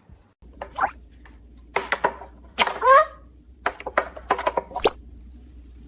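A parrot's short squawks and chirps, several brief calls sliding in pitch, mixed with a few sharp knocks over a low hum.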